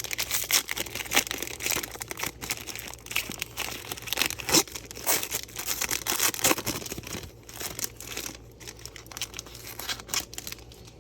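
Trading card pack wrappers being torn open and crinkled, with a steady run of irregular crackling and tearing that thins out near the end.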